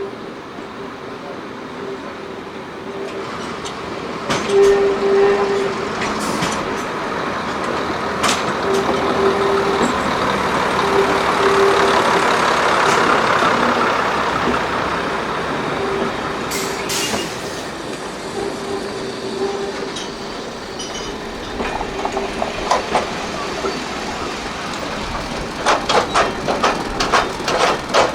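A heritage train running past on the line, its noise building to a peak midway and fading, with a steady tone coming and going throughout. Near the end comes a quick run of wheel clicks over rail joints.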